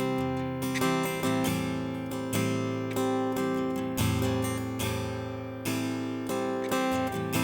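Acoustic guitar strummed in a steady rhythm, changing chords every second or so, with no singing.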